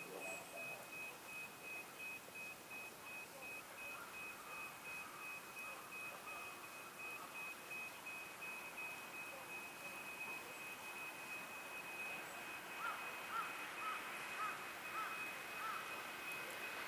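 A faint, steady high-pitched tone over quiet outdoor noise. The distant sound of an approaching 701 series electric train grows slightly louder toward the end, with a few faint chirps in the second half.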